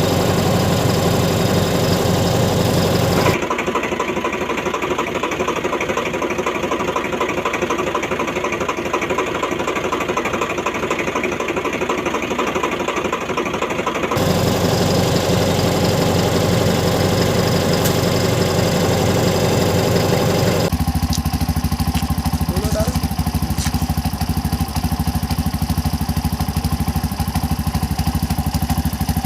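Steady vehicle engine sound effects. The engine sound changes character abruptly three times, as different recordings are cut together.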